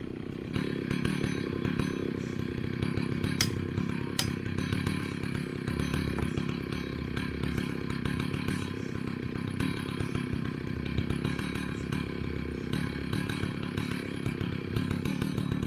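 Vintage two-stroke chainsaw running steadily through the whole stretch, its engine note shifting slightly under load.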